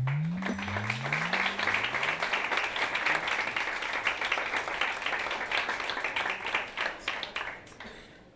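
Audience applauding, the clapping dying away about eight seconds in. Three low rising tones of music sound under it in the first couple of seconds.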